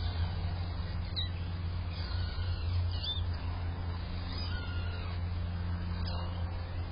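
Kittens mewing: about five short, high-pitched mews spaced a second or so apart, over a steady low rumble of traffic.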